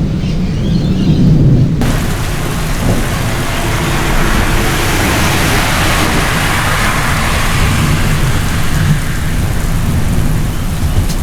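Heavy rain during a thunderstorm, with a low rumble of thunder under it. About two seconds in, the rain hiss suddenly fills out and turns fuller and brighter, then stays steady.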